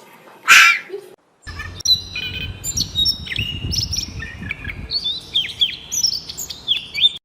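One harsh, raspy call about half a second in. Then, after a brief break, birds chirping in a rapid string of short whistled notes that slide up and down, over a low rumble.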